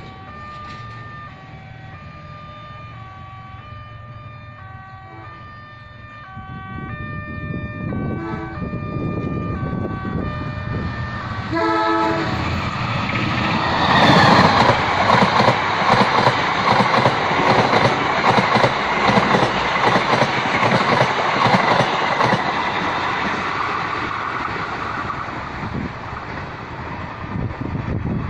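An electronic warning tone steps back and forth between pitches while a rumble builds. About twelve seconds in, a train horn sounds. A passenger train then passes close by, its loud rumble and wheel clatter filling the rest of the time.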